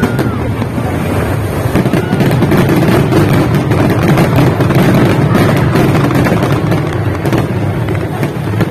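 Fireworks display going off in a dense run of bangs and crackles that merge into a continuous rumble, loudest around the middle.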